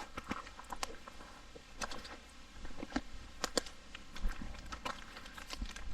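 Footsteps of hikers on a rocky trail: scattered, irregular light clicks and knocks.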